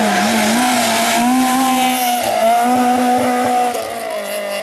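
Race car engine running hard, its pitch wavering and dipping about halfway through, then dropping again near the end as the sound grows quieter.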